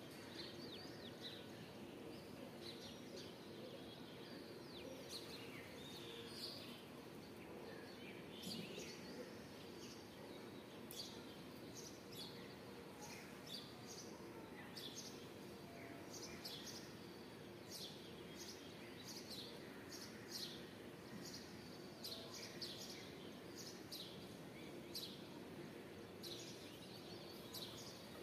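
Small birds chirping, with many short, quick high-pitched calls scattered throughout, over a faint steady outdoor background noise.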